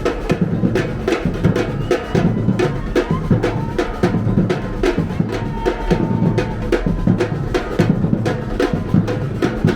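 Music dominated by drums: a fast, steady beat of kick and snare drum hits, about three to four a second.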